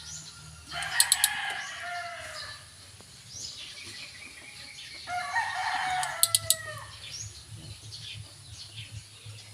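Rooster crowing twice, each crow a long call whose pitch falls at the end, with a few sharp clicks during each crow.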